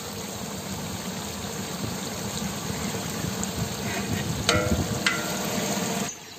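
Sliced onions, tomatoes, green chillies and whole spices sizzling steadily in hot oil in a large metal pot as a ladle stirs them. There are two short metallic clinks about four and a half and five seconds in, and the sizzle stops abruptly near the end.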